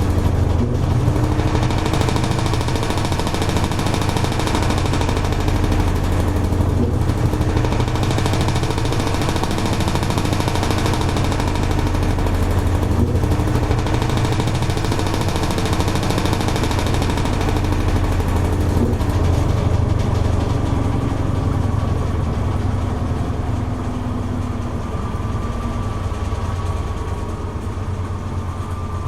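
Toshiba AW-42SEE4 top-loading washing machine running, with a steady low motor hum under a swishing noise. The swishing swells and briefly dips about every six seconds, then thins out in the last third, while a faint whine rises slowly.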